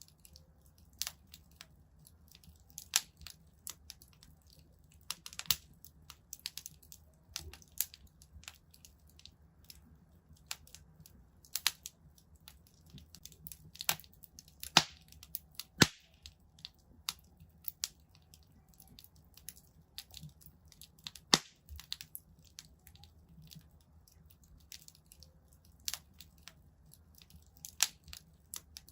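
Wood fire crackling in a fireplace: irregular sharp pops and snaps, a few louder ones about halfway through, over a faint low rumble.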